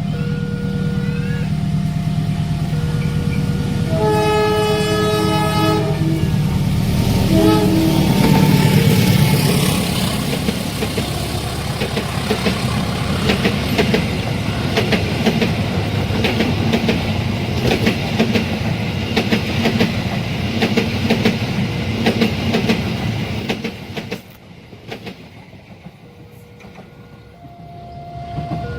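A long diesel-hauled train passing a level crossing. The crossing's two-tone warning alarm alternates at the start, then the locomotive sounds its horn in a long blast about four seconds in and a shorter one soon after over a low engine rumble. The wagons then clatter over the rail joints with a steady clicking for about fifteen seconds, and the sound drops away sharply near the end as the train clears.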